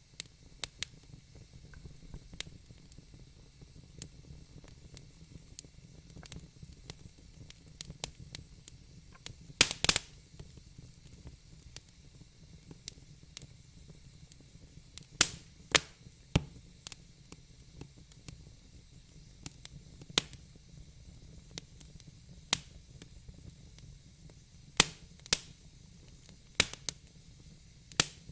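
Wood fire burning in a fireplace: a low steady hiss under irregular crackles and pops. The loudest is a quick cluster of pops about ten seconds in.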